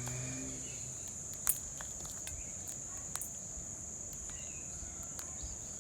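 Steady high-pitched insect chorus, with two sharp clicks about one and a half and three seconds in.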